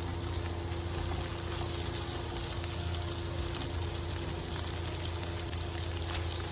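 Sliced cabbage frying in hot oil in a pan: a steady sizzling hiss, with a steady low hum underneath.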